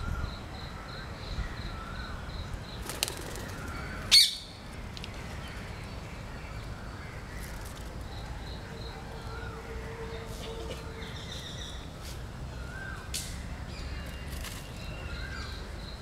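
Birds chirping and calling in the background, with one loud, sharp burst about four seconds in.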